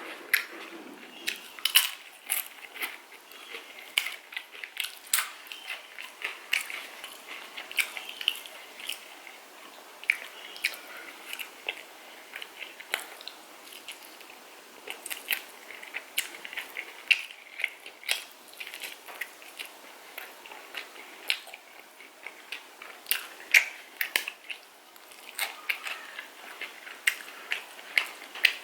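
A person eating chicken curry close to the microphone: chewing and biting, with frequent sharp, irregular mouth clicks.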